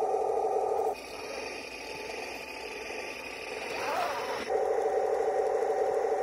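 Sound module of a 1:16 RC M26 Pershing tank playing a steady pulsing engine sound. About a second in it gives way to a quieter whir for some three seconds, with a wavering tone near the end, then the engine sound returns.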